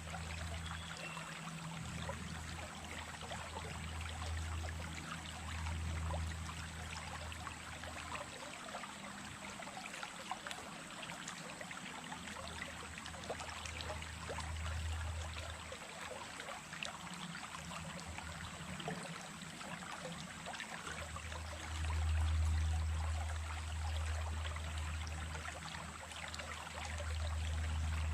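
Small stream running steadily, a continuous trickling and splashing of water, with a low rumble that swells and fades several times and is strongest about two thirds of the way in and near the end.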